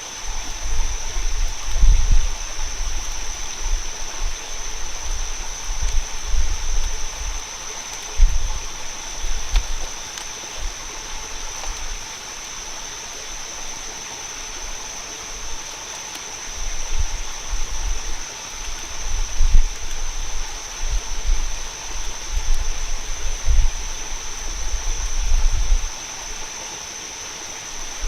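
Rainforest ambience: a steady rushing like running water, with a constant high-pitched insect drone over it. Irregular low rumbling surges come and go, quiet for a stretch in the middle.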